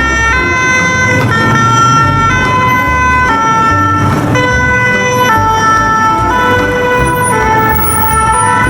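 Electronic siren of a toy police ambulance car: a buzzy two-tone wail stepping between a higher and a lower pitch about once a second.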